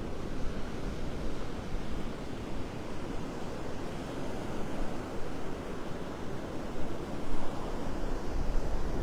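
Gulf surf washing onto the beach, a steady rush, with gusts of wind rumbling on the microphone.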